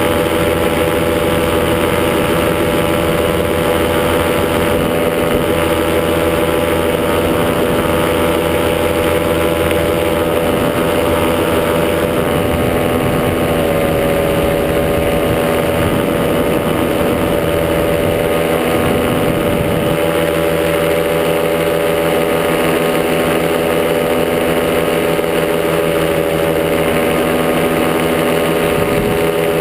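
Top80 two-stroke paramotor engine and propeller running steadily at cruise power in flight, its pitch shifting slightly about a dozen seconds in.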